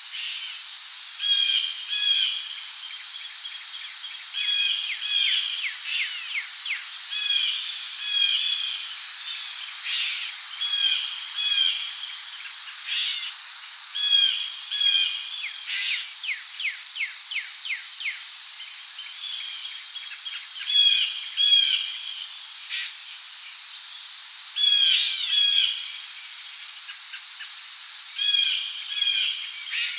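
Rainforest ambience: a steady high-pitched insect drone under birds calling over and over in short, repeated phrases, with a few sharp clicks and quick rattling trills among them.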